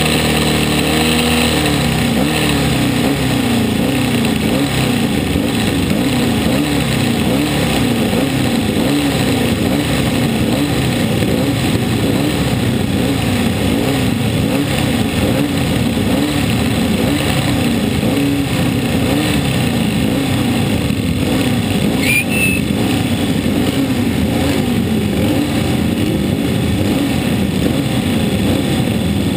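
Classic racing motorcycle engine heard from the bike itself, running at middling revs while the machine rolls slowly. Its note drops about a second in, then wavers up and down roughly once a second as the throttle is worked.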